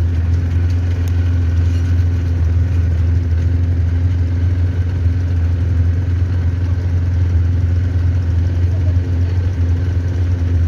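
Quad bike engine running steadily as a loud, unchanging low drone.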